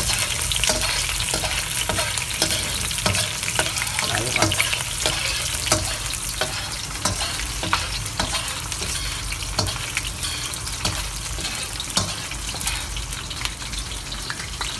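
Minced garlic and ginger sizzling in hot cooking oil in a stainless steel wok, a steady fry full of small crackling pops, with a metal spoon stirring against the pan now and then. The aromatics are being sautéed until golden brown.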